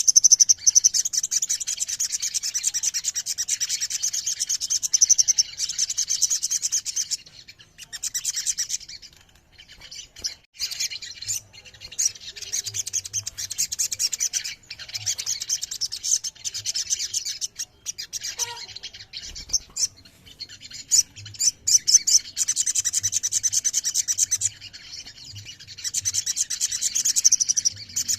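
Several crimson sunbirds (sogon) singing together: dense, high-pitched rapid trills and chirps, thinning in a couple of brief lulls.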